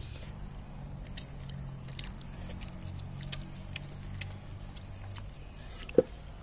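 Close-up eating sounds of roasted pork: scattered small chewing clicks over a low steady hum, then one sharp bite into a piece of pork about six seconds in.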